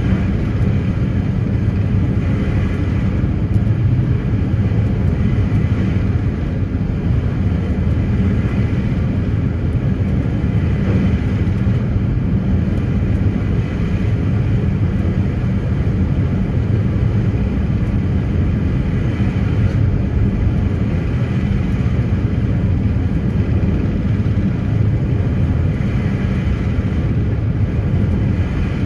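Steady, loud drone of a ferry's engines running under way, with a deep hum and a fainter hiss above it.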